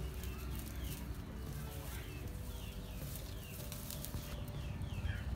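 Small birds chirping in short, high, falling notes, several a second, over a steady low rumble.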